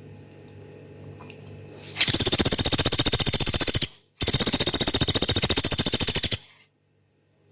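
Pelatuk beras, a small woodpecker, calling two long, rapid, rough rattling trills of high, fast-repeated notes, with a brief pause between them, the second slightly longer. A faint low hum lies under the first two seconds before the calls.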